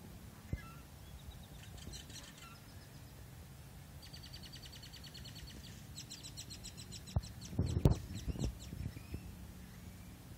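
Birds chirping, with a fast high trill in the middle, over the low steady hum of a slow-moving car. A few sharp knocks come about two-thirds of the way through.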